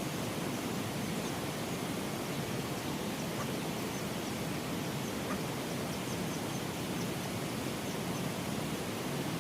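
Steady rain falling, an even rushing hiss throughout, with faint high chirps scattered through the middle.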